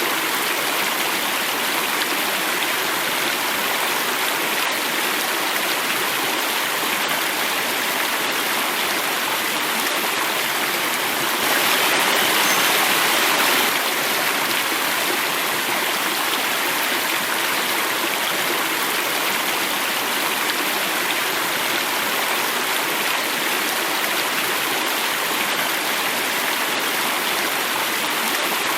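Running water flowing and falling in a steady rush, a little louder for about two seconds near the middle.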